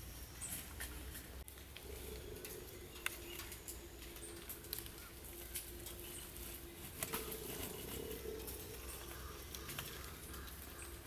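Raindrops pattering, heard as scattered irregular ticks and taps over a low background rumble.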